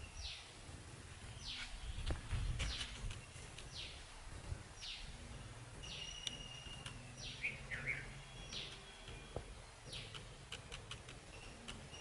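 Birds calling: short falling whistled notes repeated about once a second, with a few held notes between them, over a low steady background rumble.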